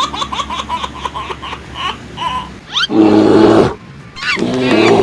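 Sound-effect clips: a rapid high-pitched laugh trailing off, a quick rising whistle, then two loud buzzy blasts.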